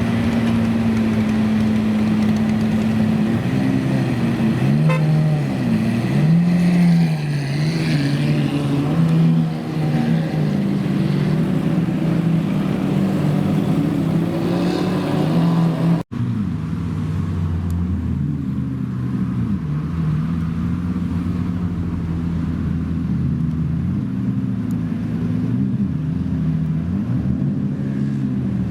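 Supercar engines running, with repeated short revs that rise and fall in pitch over a steady engine note. An abrupt break about halfway through, after which similar engine running and revving continues.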